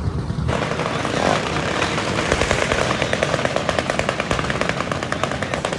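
Small motorcycle engine with a loud exhaust running hard close by, a rapid stream of exhaust pulses that starts about half a second in.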